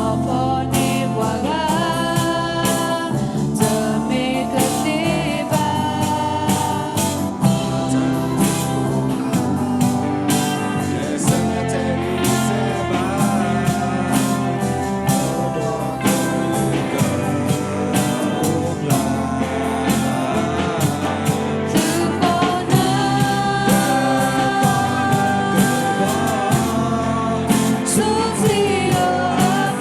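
Gospel song: a voice singing over instrumental accompaniment with a steady beat.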